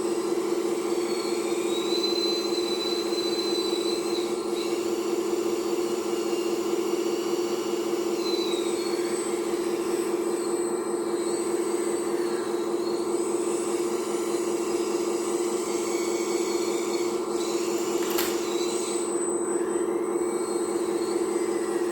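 Electric hydraulic pump of a radio-controlled excavator running as a steady hum, with fainter high whines rising and falling as the hydraulics are worked. A single sharp click comes about 18 seconds in.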